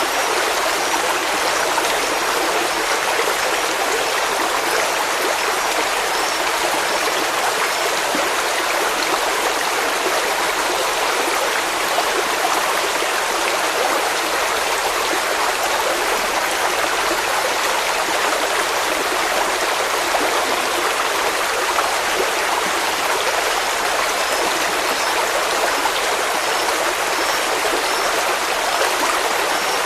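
Stream of running water, a steady, even rushing.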